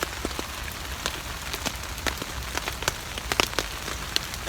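Heavy rain pattering on a tarp overhead, with frequent sharp drip impacts.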